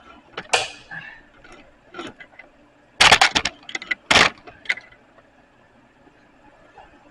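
Irregular metal-on-metal clanks and knocks, not in a steady hammering rhythm, with a quick cluster of sharp strikes about three seconds in and a single loud strike just after.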